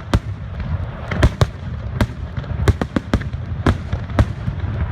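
Fireworks going off in quick succession: about ten sharp bangs at irregular intervals, roughly two a second, over a continuous low rumble.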